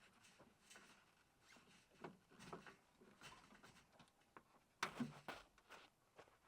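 Near silence with faint scattered clicks and rustles, and one louder knock about five seconds in.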